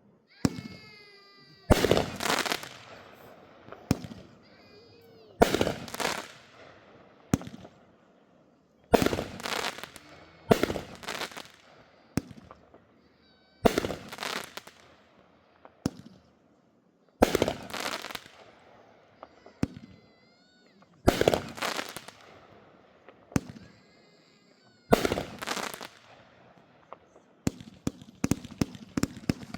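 Consumer fireworks going off: a loud bang about every three to four seconds, each followed by a crackling tail, then a rapid string of crackling pops near the end.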